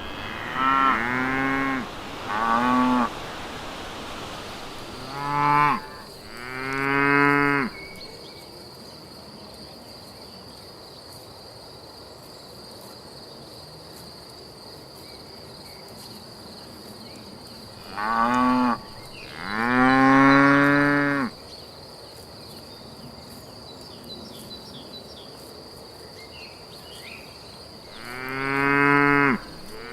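Cattle mooing: loud drawn-out moos, often a shorter call followed by a longer one, in four bouts with long gaps between them. A steady high-pitched whine, like an insect, runs through the middle stretch.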